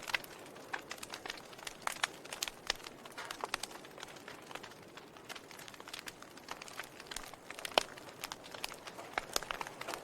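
Burning wood crackling in a fireplace: irregular sharp pops and snaps over a soft hiss, with the loudest pop about eight seconds in.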